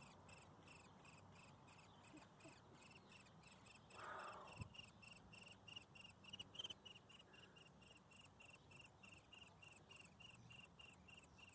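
Faint, steady chirping: short high chirps repeating evenly about three times a second, with a brief rustle about four seconds in.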